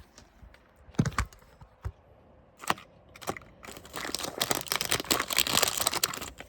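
Drill bits handled by hand: a few separate knocks and clicks, then a dense stretch of clicking and crinkling for about two and a half seconds.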